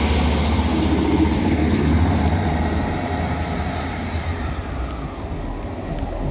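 South Western Railway passenger train running past and away along the platform: a low rumble with the wheels clicking about three times a second. The clicking stops about four seconds in and the rumble fades as the train departs.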